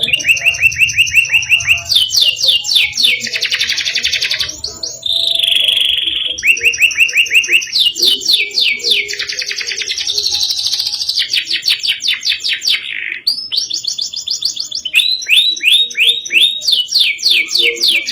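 Domestic canary singing a continuous song of rolling trills. Each phrase is a fast run of the same short note repeated many times a second, and the bird jumps to a new pitch from phrase to phrase, with brief pauses about four and thirteen seconds in.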